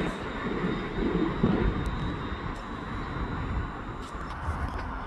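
Train running at the station platform: a steady rumble and rushing noise that eases slightly in the second half.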